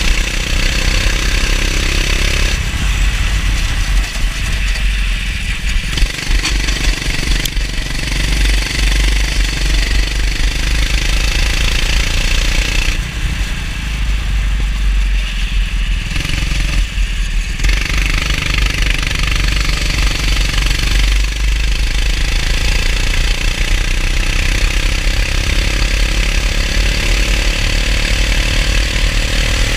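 Racing kart engine running hard through laps, its note dropping and rising again several times as the throttle is lifted and reopened, over a heavy low rumble.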